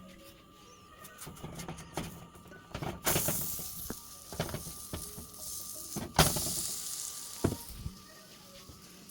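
Potato roti cooking on a hot griddle: two sudden surges of sizzling, about three seconds in and again just after six seconds, each fading away. Light clicks and knocks of a utensil on the pan come between them, and a sharp knock starts the second surge.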